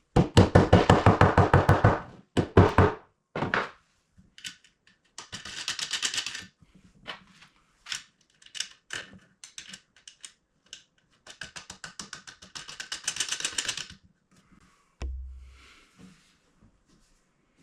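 Screws being driven into wood with a power driver in several bursts, each a rapid run of even clicks, the longest and loudest at the start. Feet are being screwed onto wooden table legs. A brief low thud comes near the end.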